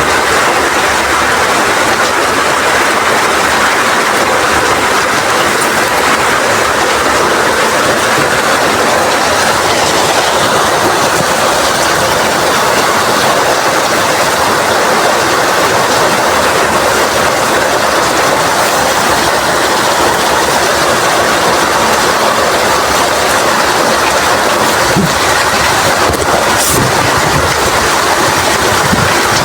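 Heavy rain pouring steadily in strong wind, a loud even rushing hiss, with a brief click near the end.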